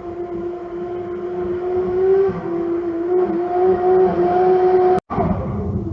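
A vehicle's engine drones at a steady pitch, as at a held cruising speed. It cuts off abruptly about five seconds in, and a louder, rougher road noise follows.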